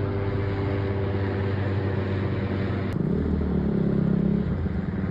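An engine running steadily. About three seconds in there is a click, and then a deeper, stronger engine tone comes in for a second or two.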